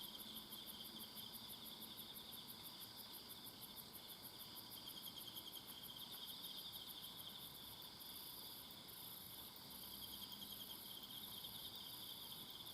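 A chorus of insects calling at once at different pitches: a rapidly pulsing high chirp over a lower, steady trill. About eight seconds in, the high chirp changes to longer calls with short gaps.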